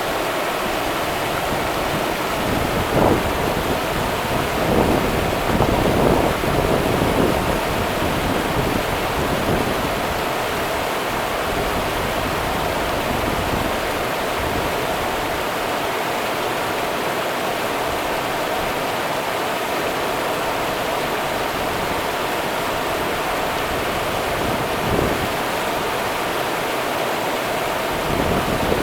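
Rio Grande river water running in a steady, continuous rush, with a few brief louder swells of splashing about three seconds in, again around five to seven seconds, and near the end.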